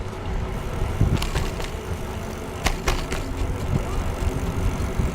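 Bicycle riding along a trail: a steady low rumble of tyres rolling and air moving past, with a few sharp rattling clicks about a second in and again near the three-second mark.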